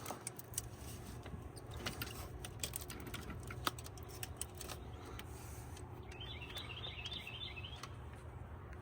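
Scattered light clicks and taps of parts and wiring being handled while the coil pack bracket is refitted over the valve cover. About six seconds in, a bird chirps a quick run of rising notes.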